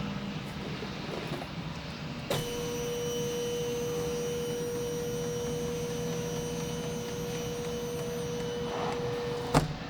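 A steady pure electronic tone starts with a click a couple of seconds in, holds for about seven seconds, and cuts off with a sharp click. A steady low mechanical hum runs underneath throughout.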